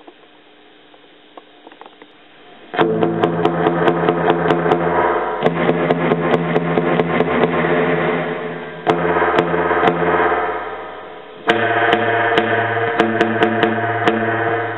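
Electric guitar played through a Roland Jazz Chorus combo amplifier: after a quiet pause with faint hiss, sharp rhythmic strummed chords start about three seconds in, the chord changing every few seconds.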